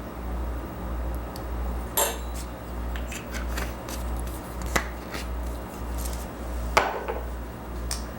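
Kitchen utensils and dishes clinking and tapping while ingredients are measured into a sauce, with three sharper clinks about two seconds apart, over a steady low hum.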